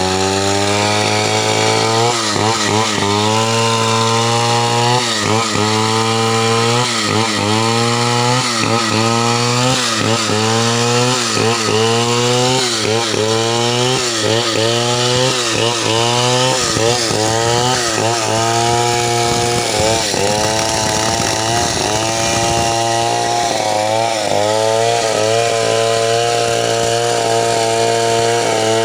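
Two-stroke chainsaw cutting through lumber at full throttle, its engine note dipping and recovering about once a second as the chain bites under load, with a steadier stretch midway.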